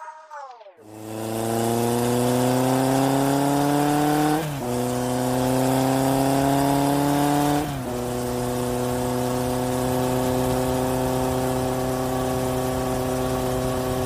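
Small electric motor of a toy race car whining. It starts about a second in and slowly rises in pitch, drops briefly twice, then runs steadily.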